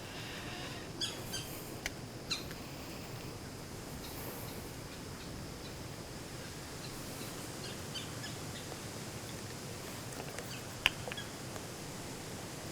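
Quiet woodland ambience: a steady low hiss with scattered short, high bird chirps, and one sharp click a little before the end.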